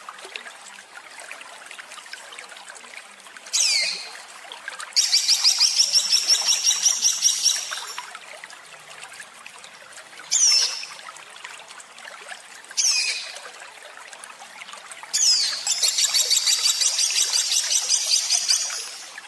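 A small songbird giving harsh, rapid 'tembakan' phrases. It sings short high calls that sweep downward, and two fast runs of repeated notes at about eight a second, the longer one lasting nearly four seconds near the end. A steady trickle of running water sounds underneath.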